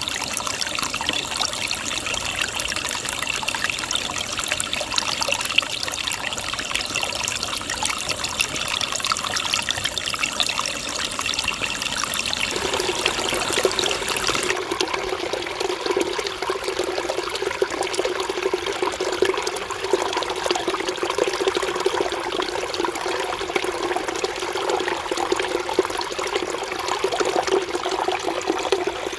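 Mountain valley stream running over rocks, a steady trickle of flowing water. About halfway through, the sound changes abruptly to a lower, fuller gurgle.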